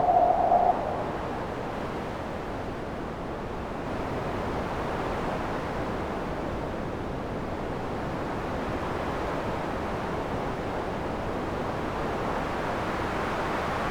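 Synthesized wind made in Max: a steady rush of noise. A whistling tone cuts off just under a second in, and the rush grows slightly brighter toward the end.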